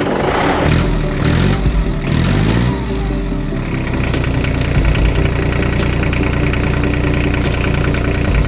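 Engine sound rising and falling in pitch for the first few seconds, then running steadily with an even, fast pulse.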